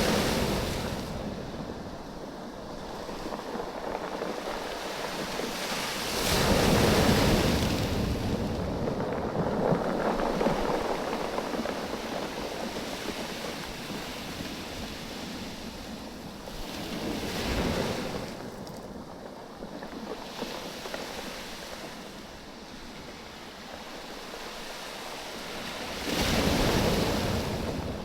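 Waves washing up and draining back over a beach of rounded oval stones, the stones clattering against each other as the water ebbs and flows. Louder surges come in roughly every nine to ten seconds, four times in all, with some wind on the microphone.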